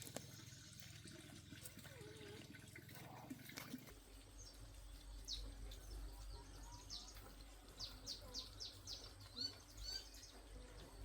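Faint high bird chirps, a quick run of short peeps in the second half, over quiet outdoor background.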